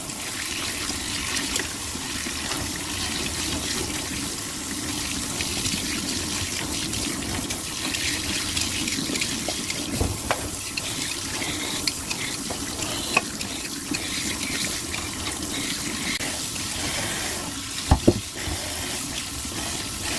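Water running steadily from a kitchen tap into a sink, with a few knocks from dishes or utensils, the loudest near the end.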